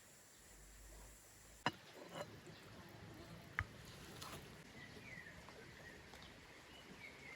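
Faint outdoor background with a few scattered sharp clicks and some faint, short high chirps.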